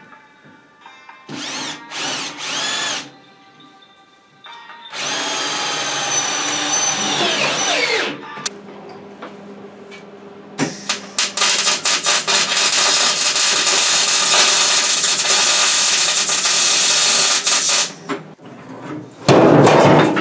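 Metalworking power tools on steel. A tool motor is blipped in short bursts, then runs for about three seconds and winds down in pitch. It is followed by about seven seconds of loud, harsh crackling from work on the metal, and a short loud burst near the end.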